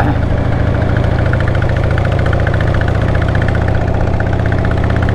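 Older motorcycle's engine running steadily under way, a low, even note.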